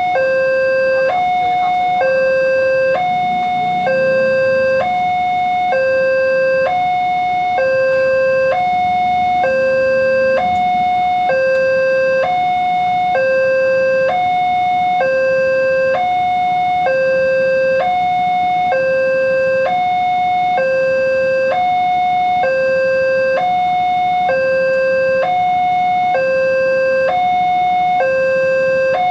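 Railroad level-crossing warning alarm sounding a steady electronic two-tone signal, alternating between a lower and a higher tone about every three quarters of a second. It warns that a train is approaching the crossing.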